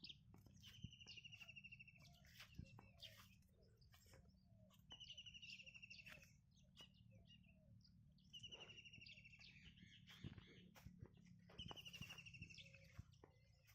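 Small songbird singing faintly: a short phrase of high notes running into a fast trill, repeated four times about three and a half seconds apart. Scattered light clicks are heard between phrases.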